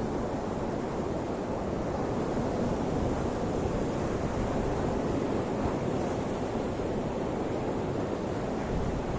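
Ocean surf: a steady low wash of waves with no single break standing out.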